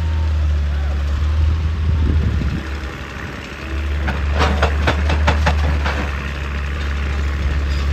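Excavator diesel engine running steadily, easing briefly a little before halfway. Around the middle comes a quick run of sharp knocks, about four or five a second for some two seconds.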